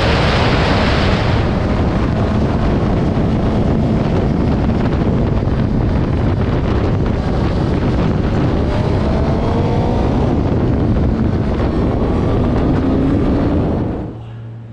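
Heavy wind rushing over the microphone of a motorcycle at speed, with the engine's note faintly audible and rising twice under acceleration. Just before the end the wind noise drops away sharply as the bike slows, leaving a steady low engine drone.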